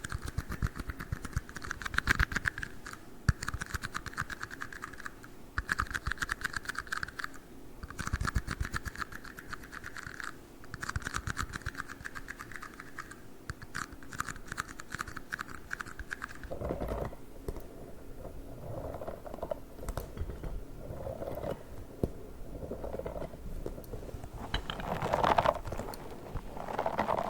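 Fast, dense tapping and clicking on tiny cups, in bursts of about a second or so with short pauses. About sixteen seconds in it gives way to softer, irregular rubbing and handling sounds of a different trigger object, a pink star.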